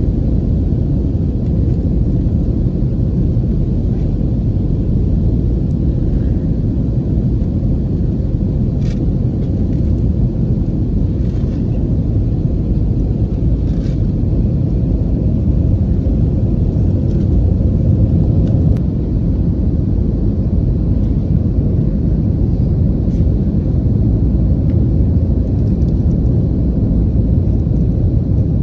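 Steady low rumble of engine and airflow noise inside an Airbus airliner's cabin in flight, with a few faint clicks.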